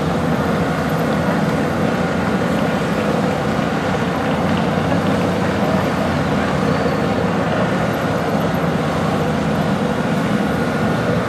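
Several motorcycles riding together at low speed, their engines blending into a steady drone.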